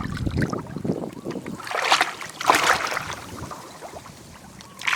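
Shallow flowing water splashing and sloshing in irregular bursts, as of hands or feet moving through it.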